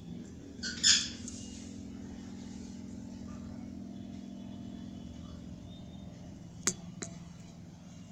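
A small motor hums steadily at a low pitch after briefly rising as it starts, with a short loud noisy burst about a second in and two sharp clicks near the end.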